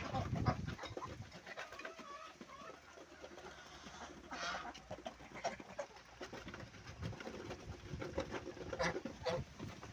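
Farm poultry at feeding time: scattered short calls from the flock, with many small taps and clicks among them.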